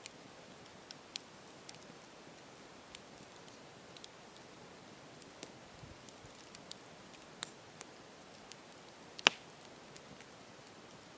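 Campfire crackling: a soft steady hiss with scattered sharp pops, and one much louder pop about nine seconds in.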